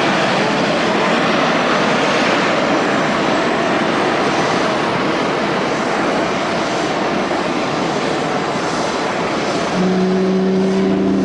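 Fuji Dream Airlines Embraer regional jet landing, its engines a loud, steady rush of noise that eases slightly past the middle. About ten seconds in, a lower steady hum with several pitches comes in.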